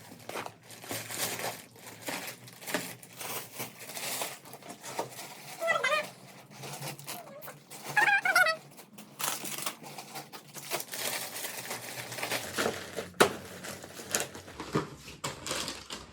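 Packaging being handled, crinkling and rustling in irregular bursts, with two short high-pitched vocal sounds about six and eight seconds in.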